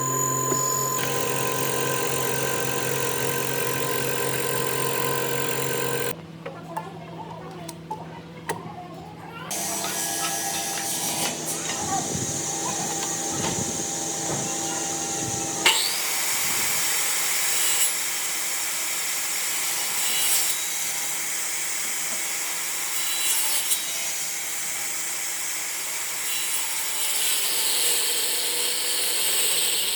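Power tools working hardwood: a steady machine hum for about six seconds, a quieter stretch with a few knocks, then continuous cutting or sanding noise from about ten seconds in.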